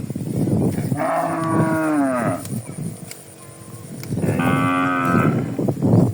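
Cattle mooing twice, two long calls, the first dropping in pitch at its end, the second held level, over the clatter of many hooves moving along.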